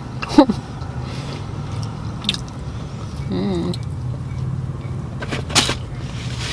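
Someone chewing food, with a few sharp mouth and handling clicks and a brief closed-mouth "mm" about three and a half seconds in, over a steady low hum inside a car.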